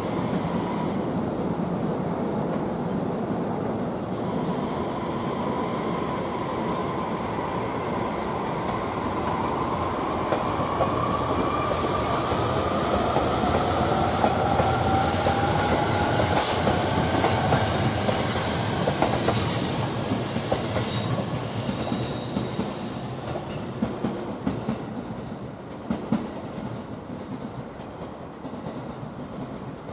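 JR East E233-series electric multiple unit pulling away, its traction motor whine climbing steadily in pitch as it accelerates over rail noise. It grows louder toward the middle, then fades with wheel clicks over the rail joints.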